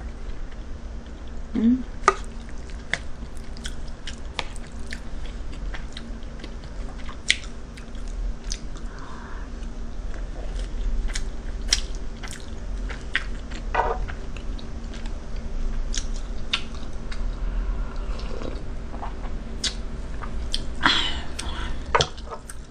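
Close-miked chewing of a mouthful of fried rice: irregular wet mouth clicks and smacks throughout, with a brief hummed 'mm' near the start. A steady low hum runs underneath.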